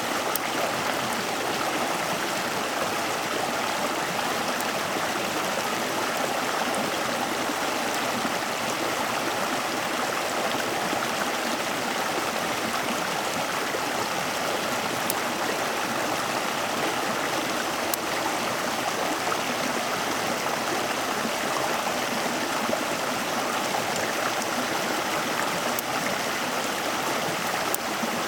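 Flowing stream water rushing steadily, with a few faint clicks.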